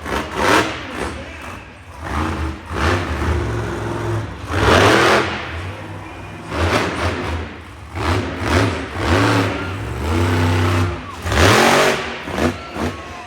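Monster truck engine revving hard in repeated surges, the pitch climbing and dropping with each blip of the throttle, with several loud roaring peaks.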